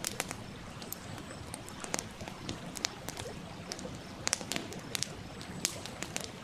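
Wood fire crackling, with sharp irregular pops over a steady rush of a flowing stream.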